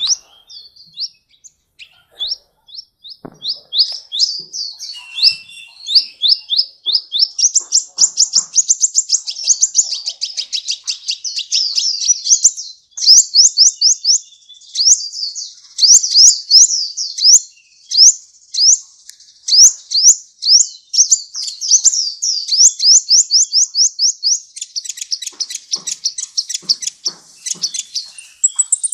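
A sunbird, the cage bird Indonesian keepers call 'kolibri', singing a long, loud song of high, quick downward-sweeping chirps. The notes come a couple a second at first and then run together into fast trills, with brief breaks. This is the sustained singing that keepers call 'gacor'.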